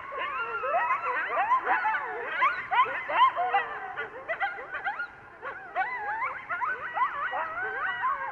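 Coyotes' group yip-howl: several animals yipping and howling at once, with many overlapping wavering calls and a brief lull about five seconds in. It is the chorus of a mated, territorial pair, the male howling while the female yips, barks and gives short howls.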